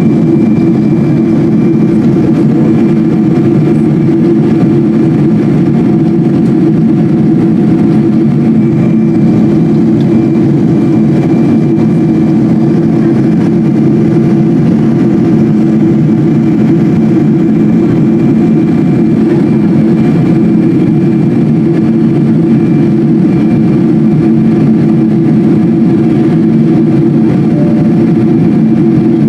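Steady drone inside the cabin of a Boeing 777-200 airliner with its jet engines running, a dense low hum with faint steady tones above it and no change in level.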